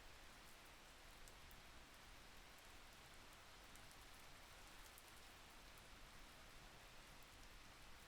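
Faint, steady rain, with the occasional soft tick of a single drop.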